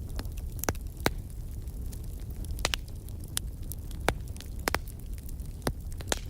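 Wood fire crackling in a fireplace: sharp pops and snaps at irregular intervals, about eight of them, over a steady low rumble of the flames.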